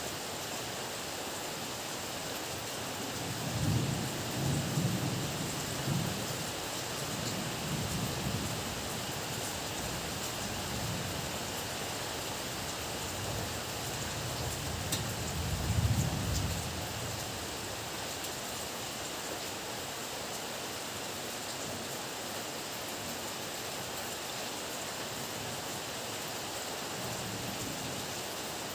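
Heavy rain falling steadily, with thunder rumbling low twice: a rolling rumble a few seconds in, and a louder one about halfway through.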